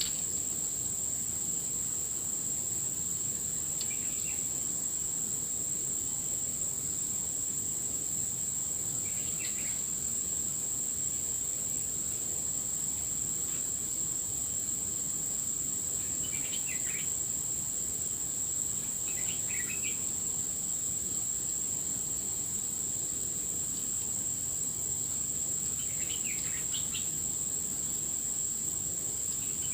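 Insects, cricket-like, droning on one steady high pitch without a break, over a steady low background noise. A bird gives short chirps about five times, several seconds apart.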